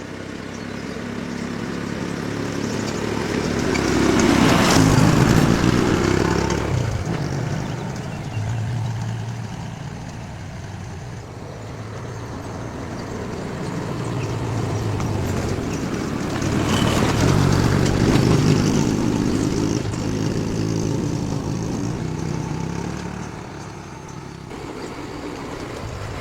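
A motor vehicle's engine running, swelling loud twice, about five seconds in and again about seventeen seconds in, and fading between, like vehicles passing close by.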